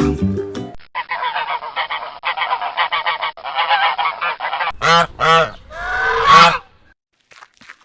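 Domestic geese honking. A flock's overlapping, chattering calls are followed by three loud honks, two short ones and then a longer one. Faint footstep-like ticks come near the end.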